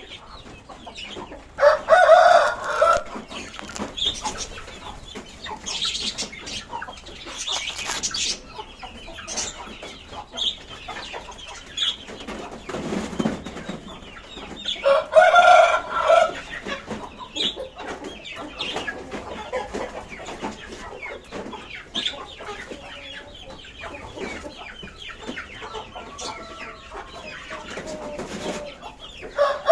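Flock of budgies and lovebirds chirping and chattering, with a much louder, lower drawn-out call twice, about a dozen seconds apart.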